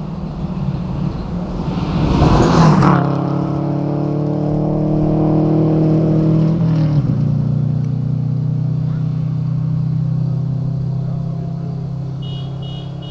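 Naturally aspirated 1990 Subaru Legacy rally car's flat-four engine at speed on a stage, with a loud rush about two and a half seconds in as it passes closest. The engine note then holds under load, shifts in pitch around seven seconds in, and slowly fades as the car pulls away.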